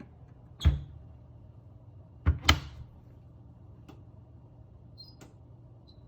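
Handling of a washing machine: a sharp knock, then a quick double knock, like a door or drawer being shut. A few light clicks follow, then two short high beeps near the end, like the machine's control panel answering button presses.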